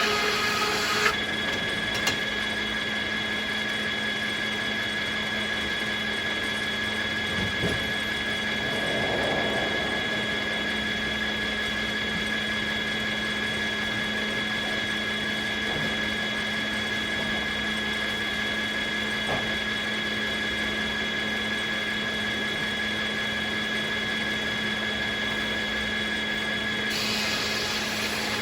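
Circular sawmill running with a steady high whine from the spinning blade, and a brighter hiss in the first second and again near the end.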